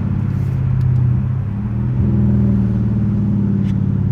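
Straight-piped exhaust of a 2021 Dodge Durango R/T's 5.7-litre HEMI V8 running steadily with a deep low note. Its pitch shifts slightly about two seconds in.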